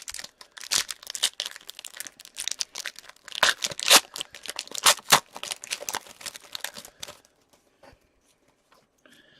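A hockey card pack's wrapper being torn open and crinkled: a dense run of crackles and rips for about seven seconds, then it goes nearly quiet.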